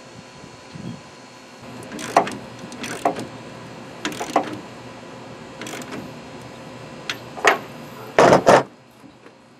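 Irregular knocks and clatters of hand work as a light is fastened to a pickup truck bed, about ten in all, with a loud quick double knock near the end.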